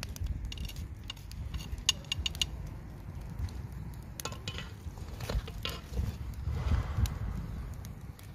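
Scattered light clinks and knocks of metal being handled, over a steady low rumble.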